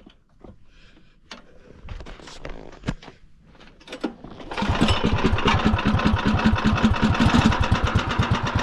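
A few faint handling knocks, then about halfway through a Predator 301 single-cylinder small engine on a golf cart starts and runs steadily with a fast, even chug.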